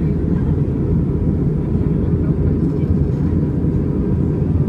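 Airbus A320 in flight: a steady low rumble of engines and airflow, with a faint steady whine over it.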